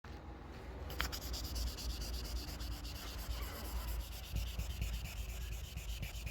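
Sheet of 1500-grit sandpaper rubbed by hand over car paintwork, a steady scratchy rubbing, flattening bird-dropping etching out of the paint.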